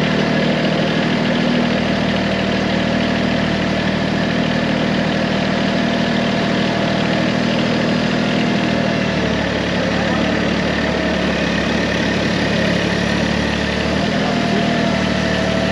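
Engine running steadily at about idle, its low note shifting a little about nine seconds in and again near the end.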